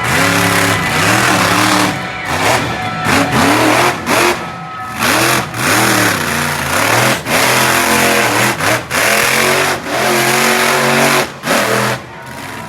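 Monster truck engine revving hard, its pitch climbing and falling over and over as the throttle is worked, with brief cut-offs between bursts.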